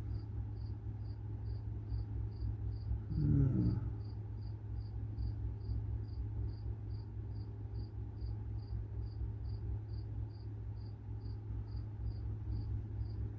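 A cricket chirping steadily, about two short high chirps a second, over a low steady hum.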